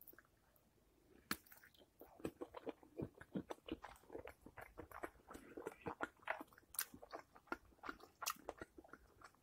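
A person chewing a mouthful of cheese-filled bratwurst with mustard: faint, irregular wet mouth clicks, several a second, starting about a second in.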